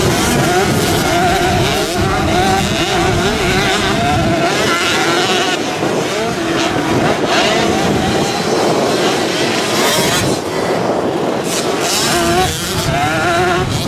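Motocross bikes racing, their engines revving up and falling back again and again, with the pitch wavering as the riders work the throttle.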